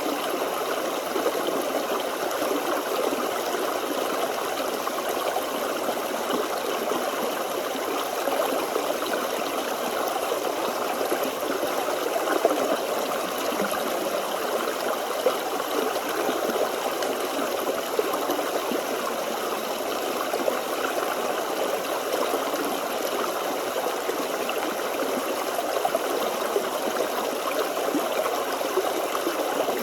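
Forest stream water running and babbling over stones, steady and continuous.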